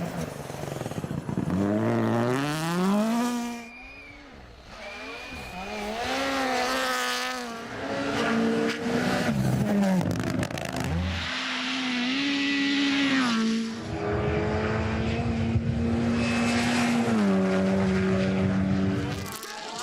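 Rally car engine revving hard at speed, its pitch climbing and dropping again and again through gear changes. Late on it holds a steady note for a few seconds, then steps down.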